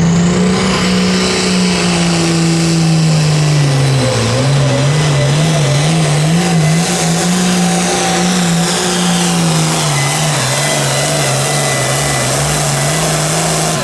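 A competition puller's engine held at high revs under load on a sled pull. Its pitch dips about four seconds in and wavers for a couple of seconds, then runs steady until it cuts off abruptly.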